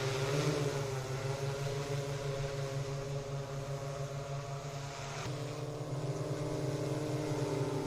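Agricultural spraying drone's rotors humming steadily, the pitch shifting about five seconds in as the motors change speed.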